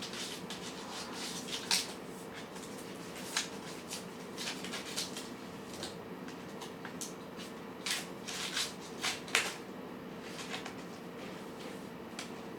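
Cats eating: scattered small crunches and clicks, irregular and a few louder than the rest, over a steady faint hum.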